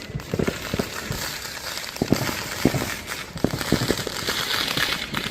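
Fireworks going off: a dense crackling hiss with many sharp bangs and pops at irregular intervals.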